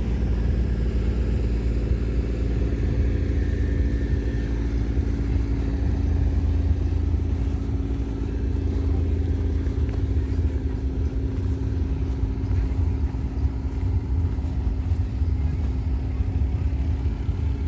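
An engine running steadily at one speed: a low, constant rumble with a steady hum.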